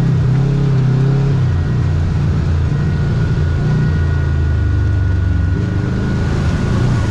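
Kawasaki KRX side-by-side's parallel-twin engine running as it drives along the trail, heard from inside the cab. The engine note drops in the middle and rises again near the end, with a faint steady whine above it.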